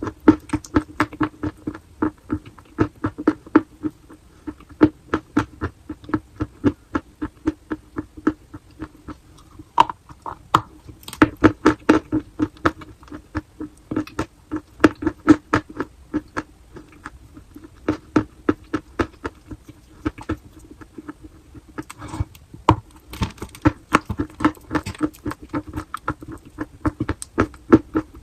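Chalk being bitten and chewed close to the microphone: a fast run of crisp crunches, several a second, with a couple of brief pauses.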